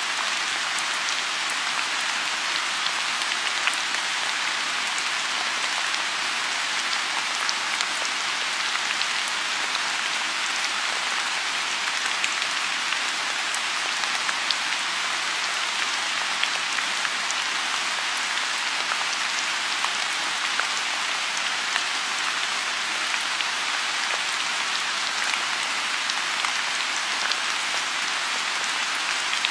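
Steady rain falling on a lotus pond: a continuous even hiss of rainfall, sprinkled with many small, distinct drop ticks.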